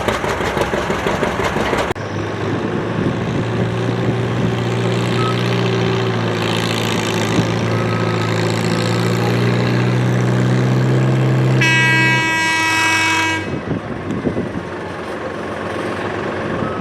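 A loud engine runs roughly, then gives way abruptly to a steady, even engine drone held at constant speed. Near the end a high horn blasts for under two seconds while the drone drops away.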